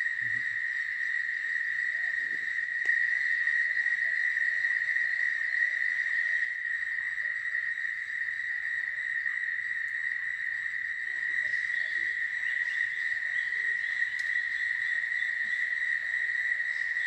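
Crickets trilling in a chorus that holds one steady, unbroken high note.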